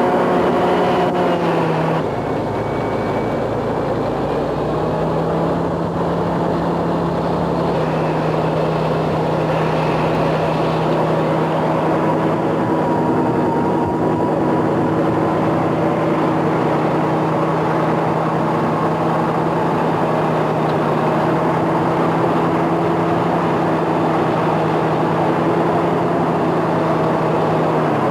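Road-construction machinery engine running steadily, its note shifting once about two seconds in and then holding.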